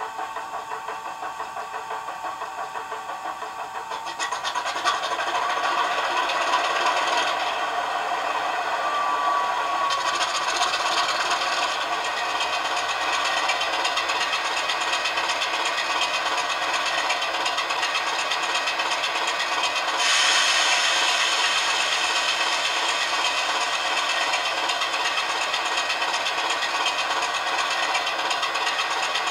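Model Class 24 locomotive's DCC sound decoder playing a recorded Sulzer diesel engine through a small 23 mm speaker: an even, fast engine beat with a whine behind it. It steps up louder about four seconds in and again about twenty seconds in, as the engine notches up.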